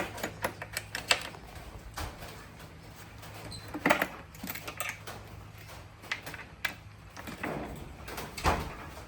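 Scattered knocks, taps and clicks of objects being handled, the loudest about four seconds in and near the end, over a steady low hum that fades about seven seconds in.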